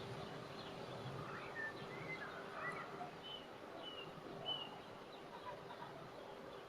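Outdoor field ambience with faint birds chirping: a few short, high whistled notes between about a second and a half and five seconds in, over a steady low hum.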